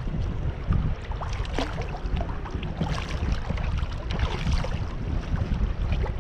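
Wind buffeting the microphone in a steady low rumble, with scattered small splashes and sloshes of water around the kayak.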